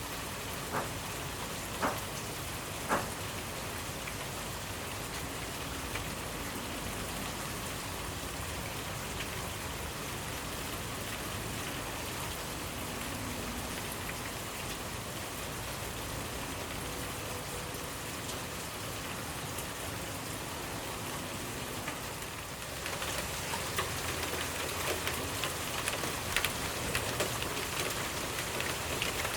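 Steady rainfall with a few louder single drops near the start. About 23 seconds in it becomes louder, with many more distinct drops spattering.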